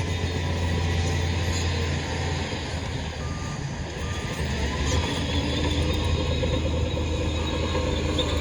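Heavy diesel earthmoving machinery running steadily, its engine easing off for a couple of seconds in the middle. Three short reversing beeps sound a little past the middle.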